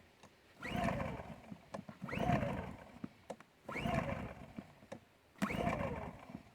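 Recoil starter of a Champion 2000-watt dual-fuel inverter generator pulled four times, about every one and a half seconds, each pull a rising whir as the engine cranks over on propane without catching.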